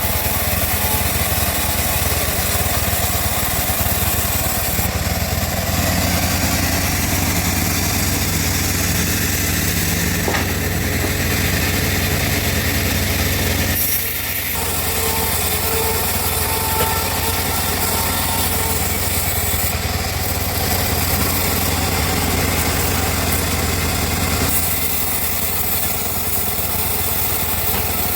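Homemade bandsaw mill running and sawing teak, a loud steady machine noise with a low hum; it dips briefly about halfway through and shifts in tone a few times.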